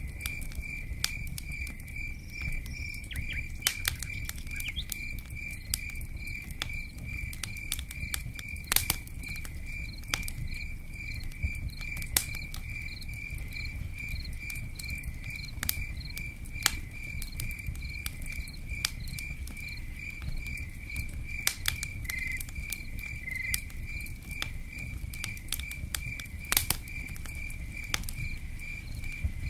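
Campfire crackling with frequent sharp pops over a steady low rumble, while a cricket chirps in an even, unbroken pulsing rhythm; rain patters softly in the background.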